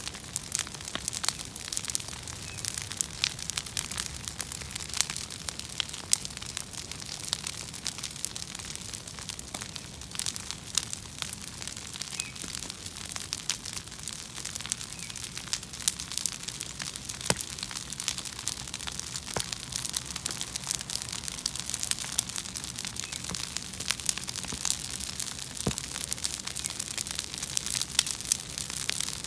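Bonfire of invasive weeds burning, crackling steadily with many sharp pops and snaps.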